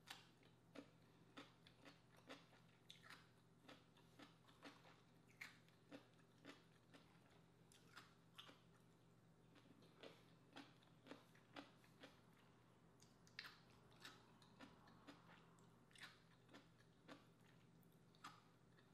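A person chewing crisp vinegar-pickled cucumber slices: faint, short crunches about twice a second, over a steady low hum.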